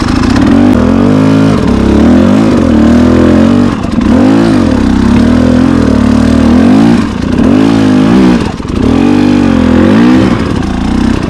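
Dirt bike engine pulling hard on a climb, revving up and down with the throttle; its pitch sags and rises again several times.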